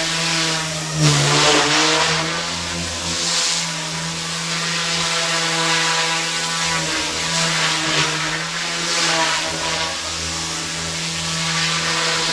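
Goosky S1 collective-pitch micro helicopter flying: a steady high motor whine and rotor buzz. About a second in it surges loudest, its pitch dipping and climbing back, then wavers gently as the pilot works the controls.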